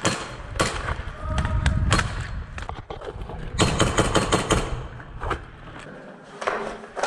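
Airsoft electric guns firing: scattered single shots and short bursts of rapid clicking shots, with the longest burst about four seconds in.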